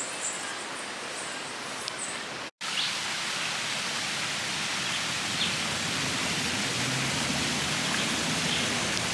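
Steady rush of flowing river water, with high-pitched chirping over it for the first two seconds. The sound drops out briefly about two and a half seconds in, then the water carries on slightly louder.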